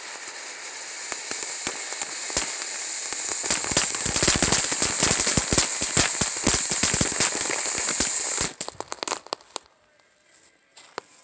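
A string of firecrackers going off in a dense, rapid crackle over a high fizzing hiss. It builds over the first few seconds, then stops abruptly about eight and a half seconds in, with a few last scattered pops.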